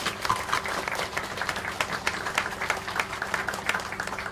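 Audience applauding: many hands clapping at the end of a speech, starting right away and dying down to a few last claps near the end.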